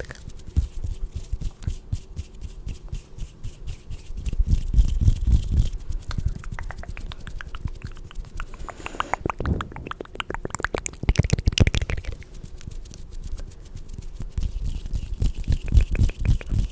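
Close-miked ASMR trigger sounds: rapid small clicks and rubbing, with two louder bursts about nine and eleven seconds in.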